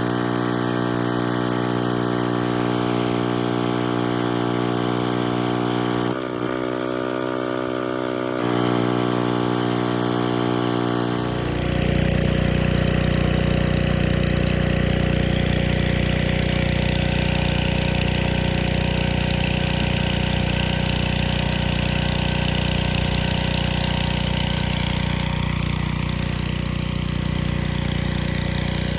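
Gas pressure washer engine running steadily. About eleven seconds in, the water spray kicks in with a loud, steady hiss, the surface cleaner's jets working the concrete, over the running engine.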